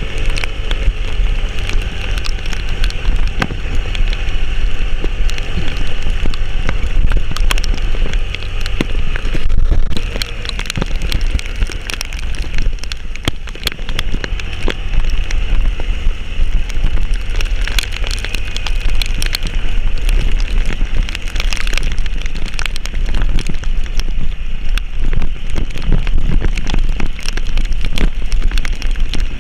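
Heavy rain, with many drops pattering close by over a steady low rumble.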